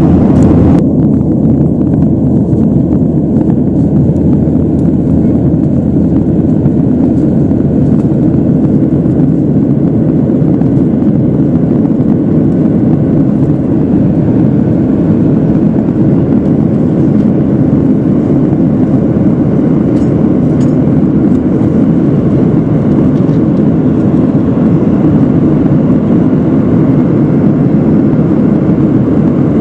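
Jet airliner cabin noise in flight, heard from a passenger seat: a steady, loud, low rush of engines and airflow with no change in pitch.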